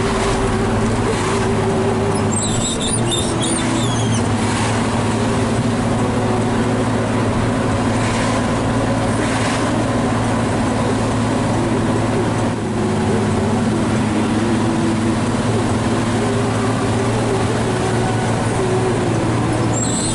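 Hino 500 FM320TI truck's diesel engine running steadily under load, heard from inside the cab while hauling a heavy wheel loader, with road noise. A few brief high squeaks come about three seconds in.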